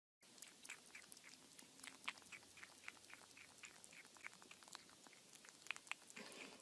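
Kitten eating from a plastic bowl: faint, rapid chewing clicks at about four a second.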